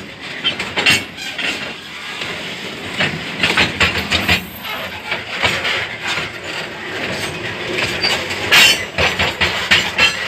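Model freight train rolling along the track: its wagons' wheels click and rattle irregularly over the rail joints and points.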